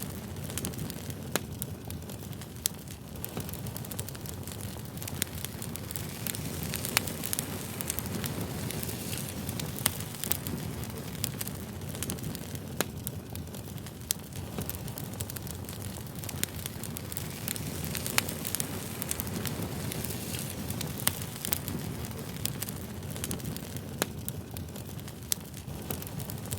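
Wood fire burning, with a steady low rumble of flames and many sharp, irregular crackles and pops.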